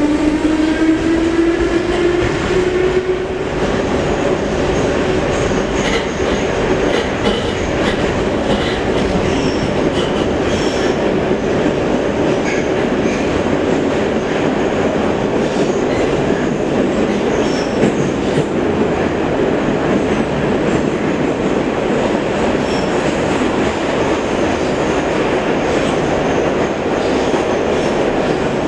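Metro train running between stations: a motor whine rises in pitch over the first few seconds as it accelerates, then settles into a steady rumble of wheels on rails with scattered faint clicks.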